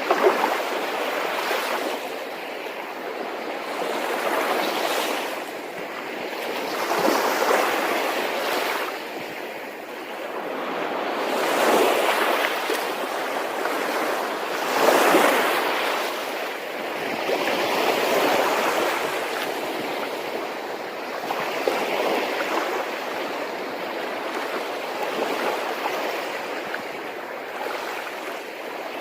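Sea waves washing in, a steady rush of water that swells and falls back every few seconds.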